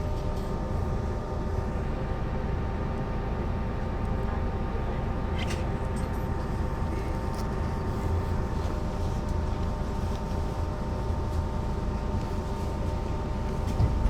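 Mercedes-Benz O 405 NÜ city bus running at a steady pace, heard from on board: a continuous low engine and road drone with a steady whine over it. A short thump comes near the end.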